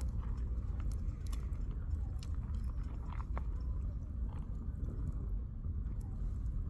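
Wood campfire burning, the firewood crackling and popping in scattered sharp snaps over a steady low rumble.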